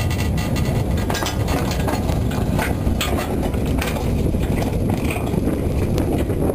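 Narrow-gauge train running slowly along the track, a steady low rumble of wheels and wagons, with irregular sharp cracks and scrapes of overgrown bushes and twigs brushing against the cars.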